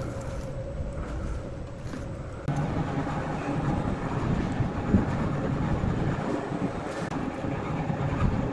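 Large sawmill saw machinery running with a steady mechanical rumble. It steps up and grows louder about two and a half seconds in.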